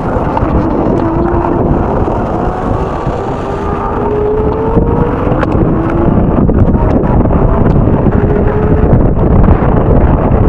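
Strong wind buffeting the microphone: a loud, steady low rumble, with a faint tone underneath that slowly wavers up and down in pitch.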